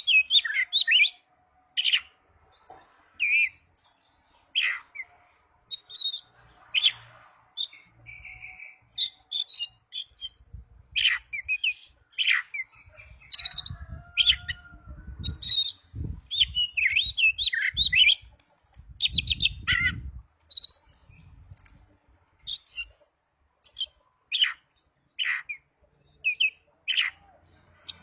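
Oriental magpie-robin (kacer) singing a varied song of short whistled notes, slurs and rapid chattering phrases, one after another with brief gaps.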